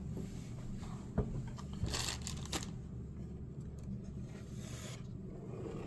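Faint handling of a case being shifted on a table: a single light click about a second in and a short rustling scrape about two seconds in, over low room hum.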